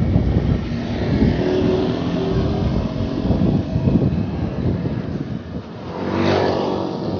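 Road traffic passing close by: engines running with a steady hum and low rumble, and one louder vehicle going past about six seconds in.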